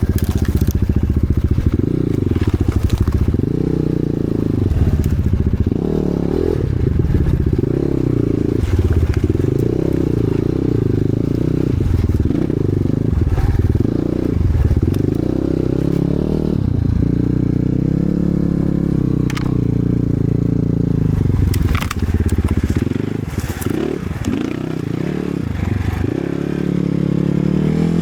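Enduro motorcycle engine running with the throttle opened and closed over and over, its note rising and falling, with occasional sharp knocks and clatter.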